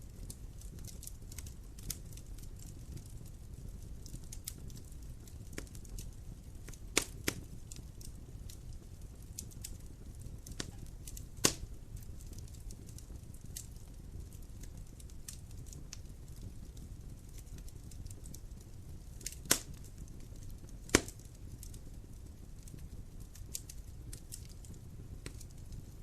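Wood fire crackling in a fireplace: steady small crackles over a low, even rumble, with a handful of louder sharp pops, two close together about seven seconds in and two more near twenty seconds.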